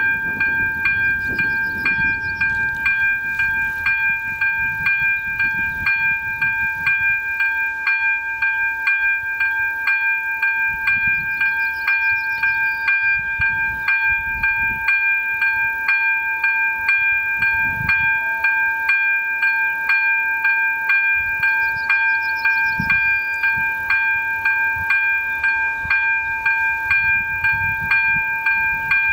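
Czech railway level crossing's electronic warning bell ringing, about two strokes a second, starting suddenly as the crossing activates for an approaching train.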